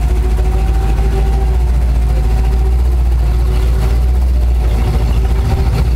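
Lifted Chevrolet truck's engine running at low speed, a loud steady low rumble with a faint steady whine above it.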